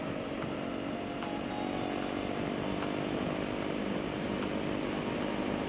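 KTM 390 Duke's single-cylinder engine running at steady revs while the motorcycle is ridden, under a rough rushing noise.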